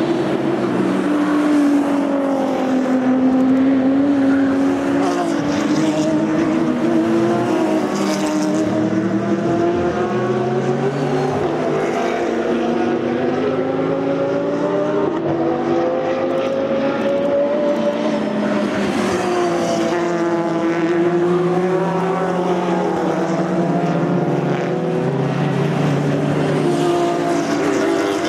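Several racing cars with open exhausts running at speed, their engine notes overlapping and rising and falling as they pass and change gear.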